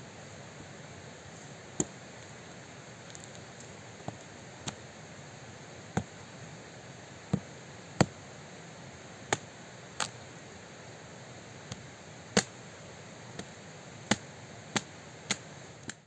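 Sharp blows of a tool striking wood, about fifteen irregular strikes roughly a second apart, some much harder than others, over a steady background hiss.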